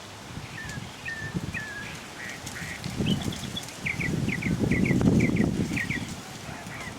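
Birds calling: a string of short chirps, coming faster and louder in the second half. A low rumbling noise swells under them in the middle.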